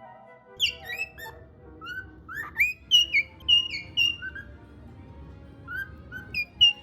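A string of short, high chirps, each sliding down in pitch, coming in quick clusters: bird-like chirping. Faint background music runs underneath.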